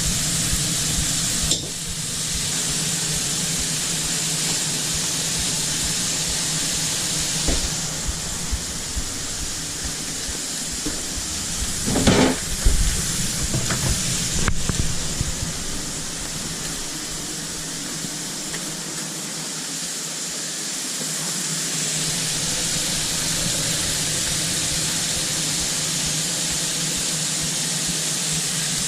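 Food frying in a food truck's kitchen: a steady sizzle over a steady low hum, with a brief clatter about twelve seconds in.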